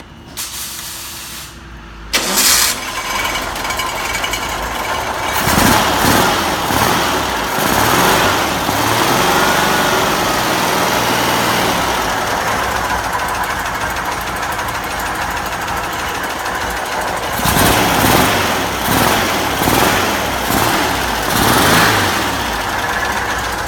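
Air-cooled VW engine on a test run stand cranked on the starter, catching about two seconds in, then running and revved up and down several times, with a series of quick blips near the end. Between revs it idles a little slow.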